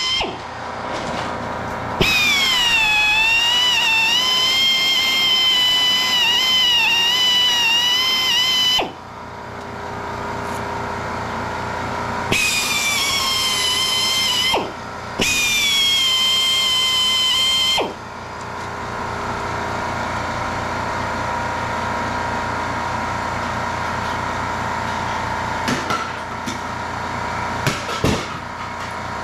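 Angle grinder working steel plate: a high whine that comes in three runs, its pitch dipping and wavering as the disc bites, then a steadier, even grinding noise.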